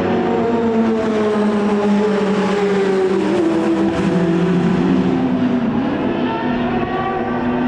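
Racing car engine running hard on track, its pitch sliding down through the middle and climbing again later as the car slows and picks up speed.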